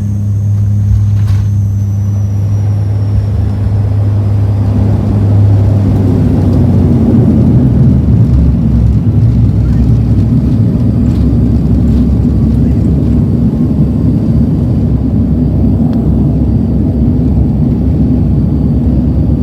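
Cabin noise of a De Havilland Dash 8-400 turboprop airliner: a steady propeller drone with a low hum. About five seconds in, a louder, rougher rumble builds and keeps going.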